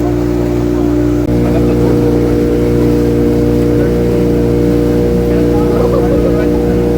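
Motorboat engine running steadily, a little louder with a slight shift in its note about a second in.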